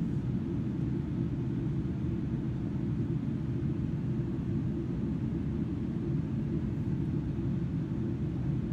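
Steady low rumble inside the cabin of a Boeing 777-300ER in flight: engine and airflow noise from its GE90 turbofans, heard from a window seat, with a fainter hiss above it.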